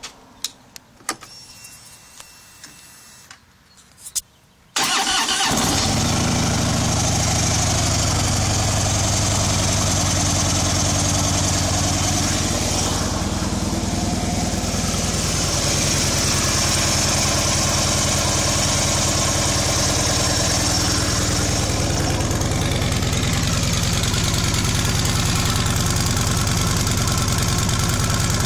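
2012 Harley-Davidson Ultra Limited's Twin Cam 103 V-twin through its stock exhaust: a few clicks, then the engine starts just before five seconds in and settles into a steady idle.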